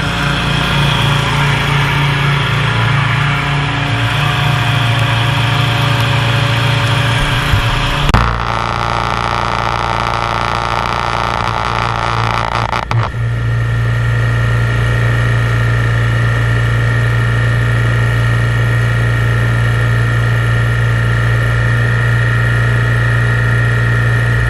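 An engine running steadily at a constant speed. Its note shifts abruptly about eight seconds in and again about thirteen seconds in.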